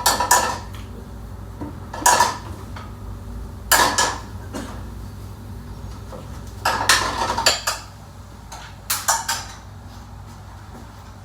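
Metal pots, pans and utensils clattering in short bursts every couple of seconds, over a steady low hum.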